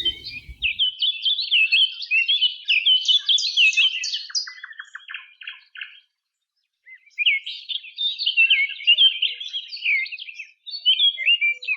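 A songbird singing a rapid, varied, twittering song in two long runs of phrases, with a silent break of about a second near the middle.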